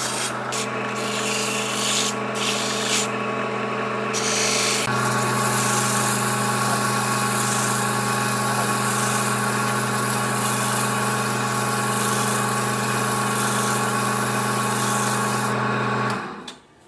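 Electric sander running steadily against wood, a motor hum under a rough abrasive rasp, switching off about 16 seconds in.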